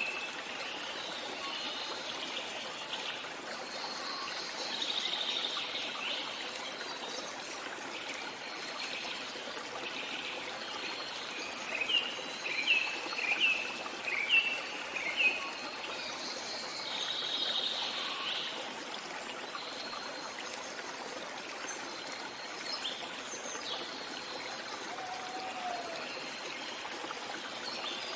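A small stream trickling steadily, with songbirds calling over it: a warbled phrase about four seconds in and again past halfway, and a run of about six short chirps around the middle.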